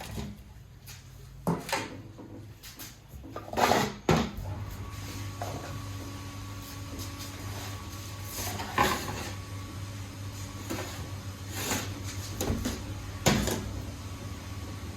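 Scattered plastic knocks and clicks from a Shindaiwa hedge trimmer being handled ahead of a start attempt, its engine not yet running, with a steady low hum setting in about four seconds in.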